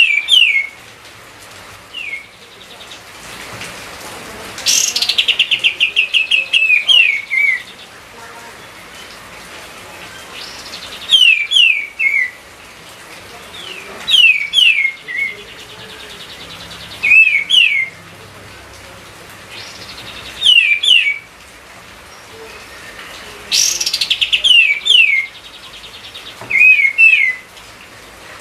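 Kapas tembak songbird singing actively: short phrases of sharp, falling whistled notes repeated every few seconds, some opening with a fast rattling trill, over a faint steady hiss.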